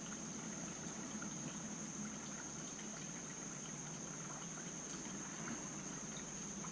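Steady background hiss with a constant high-pitched whine, and a few faint small ticks of tiny carburetor parts being handled on the bench.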